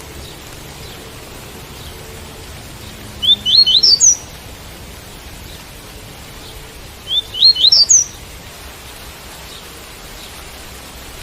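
Double-collared seedeater (coleiro) singing the tui-tui song: two short phrases of quick rising notes, about four seconds apart, over a steady hiss of rain.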